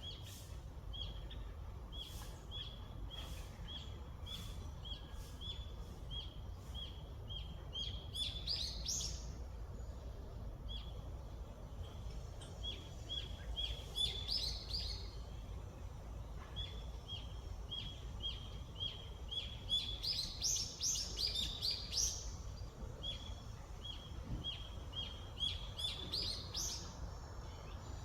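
A bird calling with a short, high note repeated two to three times a second, broken every few seconds by a brief burst of fuller, rising song, over a steady low background rumble.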